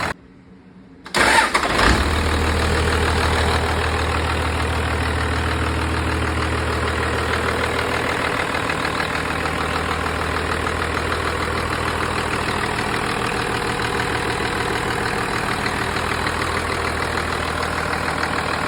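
1991 Dodge's 5.9-litre Cummins inline-six turbodiesel starting: after a second of quiet it cranks and fires about a second in, then settles into a steady idle.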